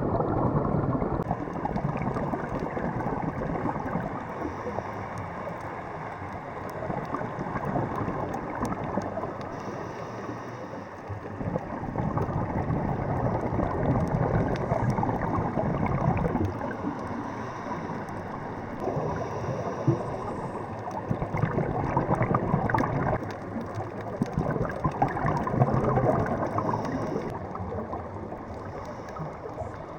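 Muffled water noise with gurgling, heard from a camera underwater, swelling and easing every few seconds.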